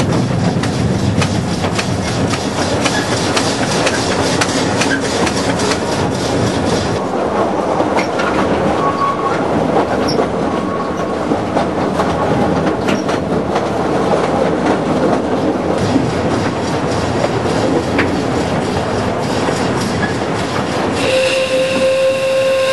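Two-foot narrow-gauge train running, its wheels clattering over the rail joints with a steady rumble. A locomotive whistle starts near the end, holding one slightly rising note.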